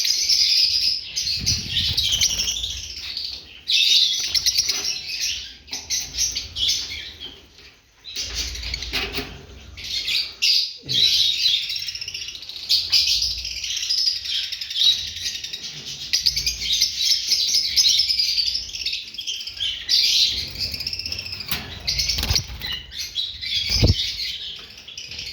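Lovebirds chattering in continuous high, rapid twittering chirps, with a few low thumps in between.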